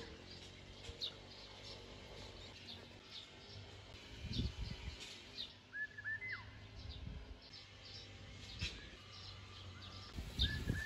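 Small birds calling outdoors: many short high chirps, and three times a whistled note that rises at the end. Low rumbling noise comes in briefly about four seconds in and again near the end.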